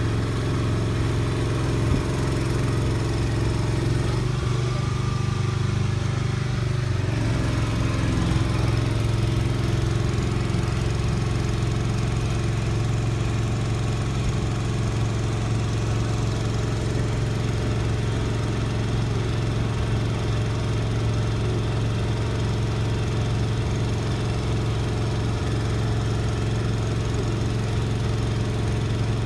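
An engine running steadily at a constant speed, with a brief change in its note about five seconds in.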